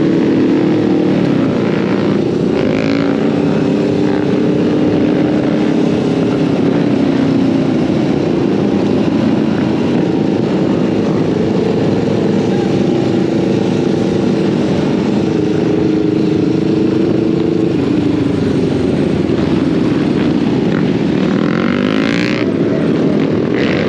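Off-road motorbike riding along, its drive note holding and then sliding down and back up several times as the throttle changes, over steady wind and road noise.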